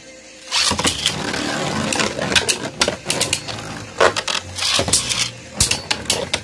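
Beyblade Burst Sparking tops, Lucifer the End against Helios Volcano, launched about half a second in. They go on spinning and colliding in a plastic stadium, with a dense rattling hiss and repeated sharp clicks as they strike each other and the walls.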